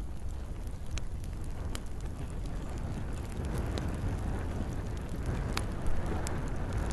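Campfire burning with a steady low rush of flames and scattered sharp pops and crackles of burning wood, about five in a few seconds, over a soft hiss of light rain.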